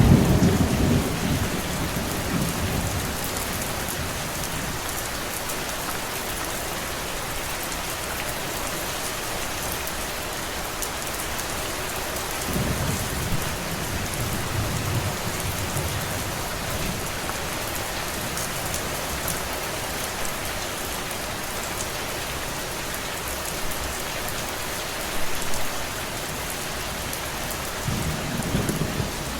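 Steady rain falling, with low rolls of thunder at the start, about halfway through and again near the end.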